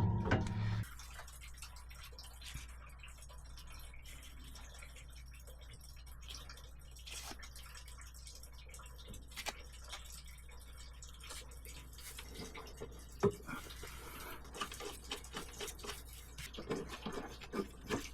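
Scattered small clicks and taps of hand work on the washing machine's motor coupler and transmission parts, becoming more frequent in the last few seconds. A steady hum cuts off under a second in.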